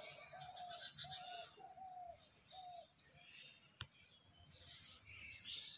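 Faint birdsong: one bird gives about five short, even cooing notes in the first three seconds, over scattered higher chirping. A single sharp click comes near the middle.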